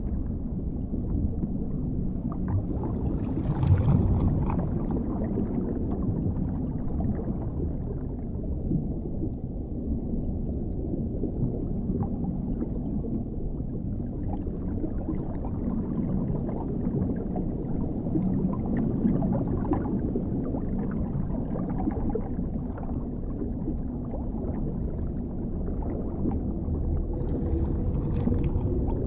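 Underwater ambience: a steady, muffled low rumble of water with scattered faint ticks, swelling briefly about four seconds in and again near the end.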